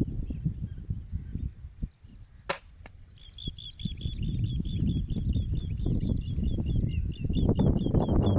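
A single sharp crack about two and a half seconds in, then birds chirping in a rapid, repeated series over a low rumble of handling or wind noise.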